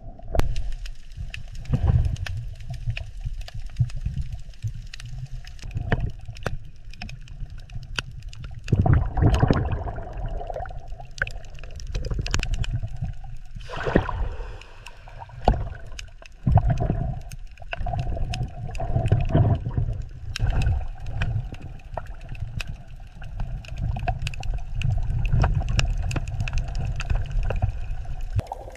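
Underwater ambience: a low rumble of moving water with bubbling and gurgling, and many small clicks scattered through it.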